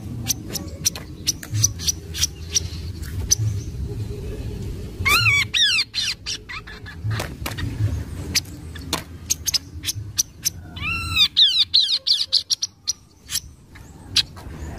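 Kaso-kaso (tepus glagah) calling: a string of sharp dry ticks throughout, with a quick run of arched whistled notes about five seconds in and a longer run around eleven to twelve seconds in.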